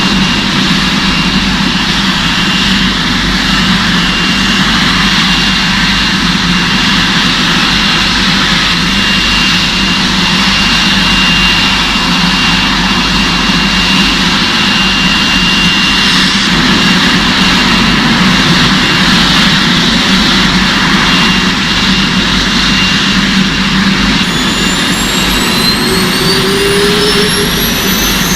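An engine or motor running steadily with a loud rushing noise and a constant high whine. A higher whine rises in pitch over the last few seconds, as if it were speeding up.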